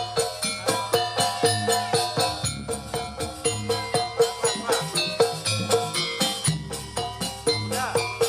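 Jaranan campursari ensemble music with a fast, even beat of about four strokes a second, ringing pitched notes and rattling, jingling percussion.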